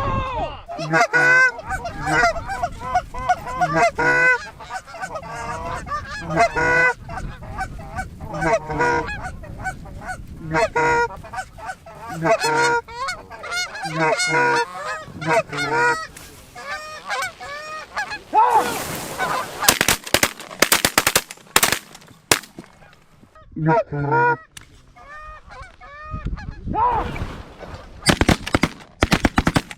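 Geese honking and clucking in quick repeated runs as a flock works in close over goose decoys. Partway through, a string of sharp shotgun blasts rings out, and a few more shots follow near the end.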